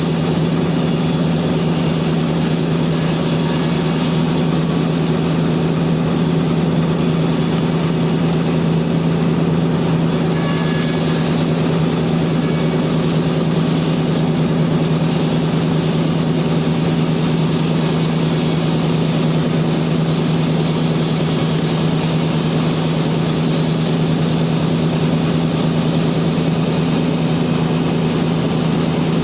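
Sawmill machinery running with a steady, unchanging drone.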